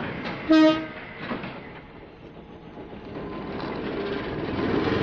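A brief train horn toot about half a second in, then a train pulling out, its running noise building steadily.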